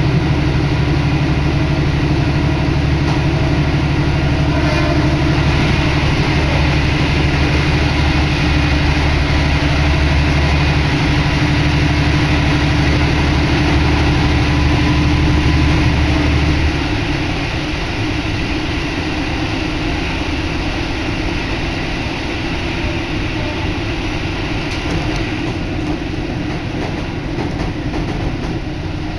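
Diesel railcar running, heard through an open window: a loud, steady engine drone with rail and wind noise, which drops off about 17 seconds in and leaves a quieter rumble of the wheels and rushing air.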